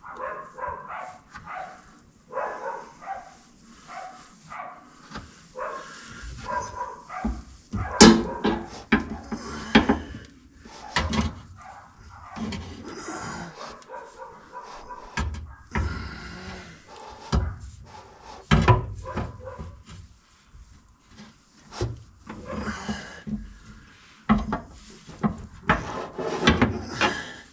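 Irregular knocks, clicks and scrapes of hand work on a Volkswagen Vanagon's gear shift linkage as a freshly greased bushing is fitted.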